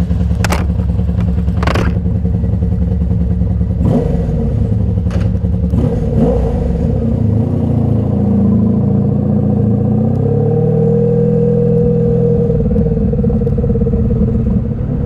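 1983 Honda Sabre VF750S's V4 engine running under way, its pitch rising and shifting in the second half as the rider changes speed. A few sharp clicks sound in the first half.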